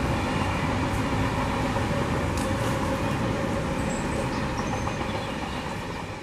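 Train running on rails, a steady rumble that slowly fades away.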